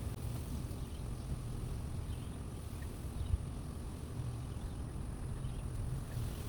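A steady low rumble, even in level, with nothing standing out above it.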